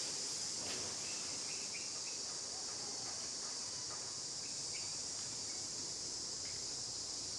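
Steady, high-pitched drone of an insect chorus, crickets or cicadas, with a few faint short chirps.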